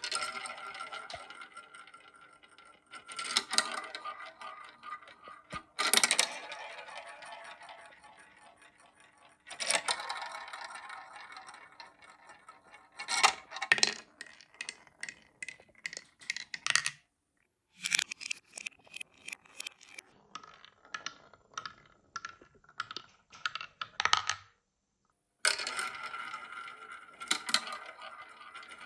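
Marbles rolling and clattering through a LEGO marble run: repeated bursts of rattling and rolling that each fade away, with quick runs of sharp clicks as the marbles hit the plastic bricks, twice dropping out briefly.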